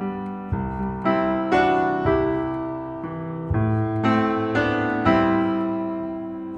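Background piano music: slow chords struck one after another, each ringing and fading.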